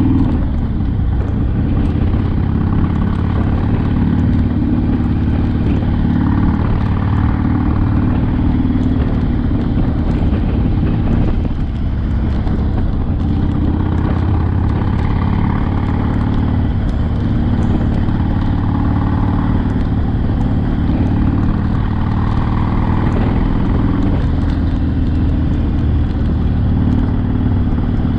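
Harley-Davidson Sportster's V-twin engine running steadily on the move, its note rising and falling a little with the throttle.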